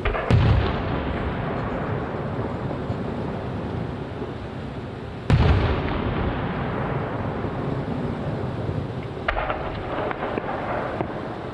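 Aerial firework shells bursting: two heavy booms, one just after the start and another about five seconds in, each followed by a long rolling echo. From about nine seconds in comes a spell of quick small crackling pops.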